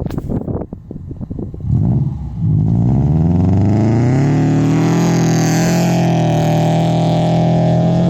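Subaru 2.5i flat-four with unequal-length headers through an aftermarket exhaust. After a couple of seconds of choppy, uneven noise, the engine revs up, its pitch rising for a few seconds, then holds steady at high revs as the car spins donuts in the snow.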